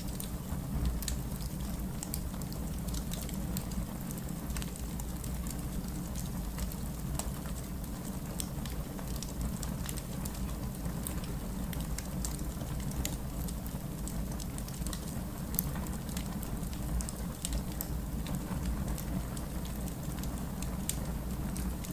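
Wood fire crackling in a fireplace: frequent, irregular small pops and snaps over a steady low rumble of the burning fire.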